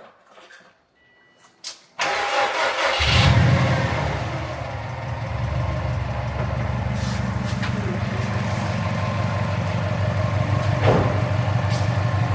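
Subaru WRX boxer engine cranked by its starter about two seconds in; it catches a second later with a brief rise in revs, then settles to a steady idle. A light tick runs under the idle, which the owner takes for some kind of lifter noise.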